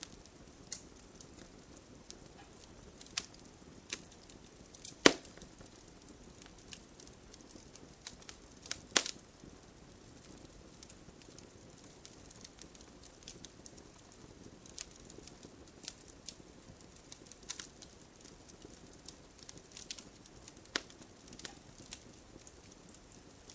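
Wood fire crackling, with scattered sharp pops, the loudest about five seconds in and another about nine seconds in, over a steady hiss of gentle rain.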